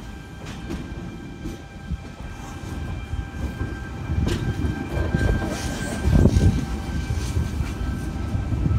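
Electric passenger train running through a station: a low rumble with a steady high whine and irregular wheel clacks over the rail joints, growing louder toward the middle.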